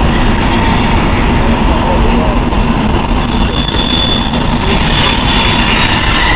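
Arriving passenger train's coaches rolling along the platform: a steady loud rumble, with a brief high squeal about three and a half seconds in.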